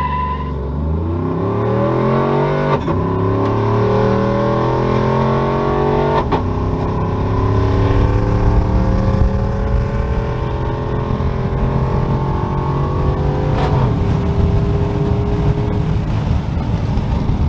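Freshly tuned pickup truck's engine under a hard acceleration pull: the revs climb steadily through the gears, with upshifts about three, six and thirteen seconds in. The last gear is a long, slow rise before the engine settles to a lower rumble near the end.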